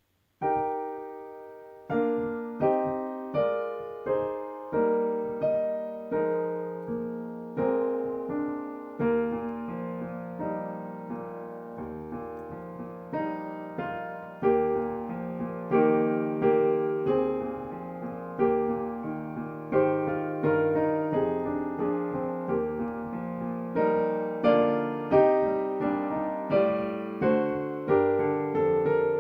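Solo piano playing a slow, gentle piece in chords, each chord struck and left to ring and fade.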